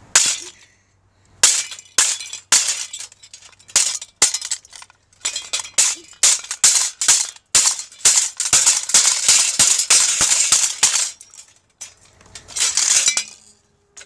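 A ceiling fan being beaten apart with sticks: a run of sharp, irregular strikes and clinks, several a second, with denser rattling stretches in the second half as loose fan parts knock together and break off.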